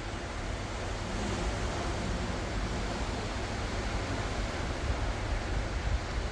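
Ocean waves washing ashore: a steady rush of surf with a deep rumble underneath.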